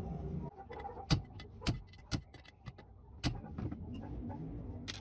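Sharp metal clicks and taps, about five spread over a few seconds with fainter ticks between, from engine valves and hand tools being handled while a cylinder head is stripped.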